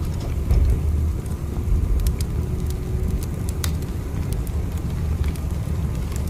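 Steady low rumble of a train running, with scattered light clicks and rattles over it.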